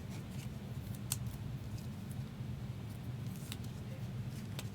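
Light handling noises with a few sharp clicks, heard over a steady low hum, as a sealed box of trading cards is opened and unpacked.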